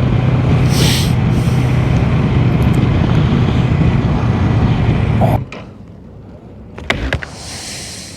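Motorcycle riding at steady speed: a steady engine hum under heavy wind noise on the microphone. It cuts off suddenly about five seconds in, leaving a much quieter background with a few sharp clicks and a short hiss near the end.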